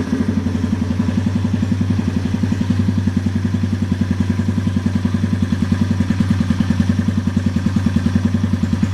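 Yamaha TW200E's single-cylinder four-stroke engine idling steadily through a custom aftermarket muffler, with an even, rapid exhaust beat of about ten pulses a second.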